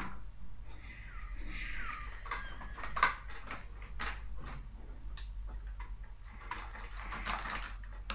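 Scattered light clicks and taps with two stretches of rustling, a cat going after its dry biscuits; the loudest is a sharp tap about three seconds in.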